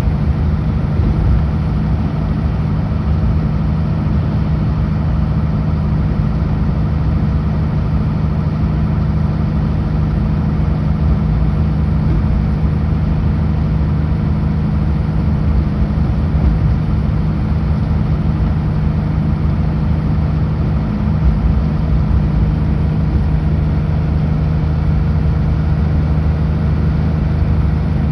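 Kenworth W900L semi-truck's diesel engine running steadily while driving, a constant low drone with road noise and no change in pitch.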